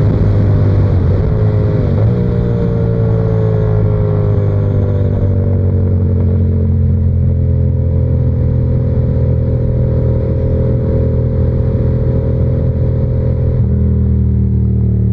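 Yamaha R7's parallel-twin engine pulling the bike along. There are two short dips in pitch early on, then the engine note falls slowly and steadily as the bike slows, and steps up in pitch near the end.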